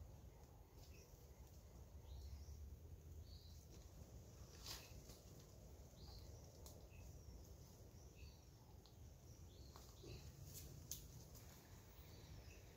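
Quiet forest ambience with faint, scattered short bird chirps and a few soft clicks over a low background rumble.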